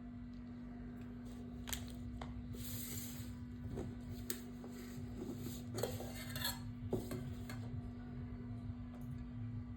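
Dishes and utensils being handled: a few scattered light clinks and knocks, with a brief hiss about three seconds in, over a steady low hum.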